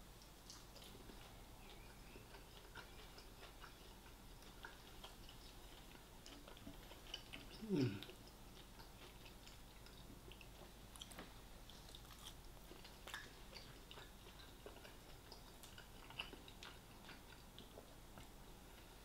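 Faint close-up chewing and mouth sounds of a person eating fried chicken: soft scattered wet clicks. About eight seconds in comes a brief low voice sound that falls in pitch.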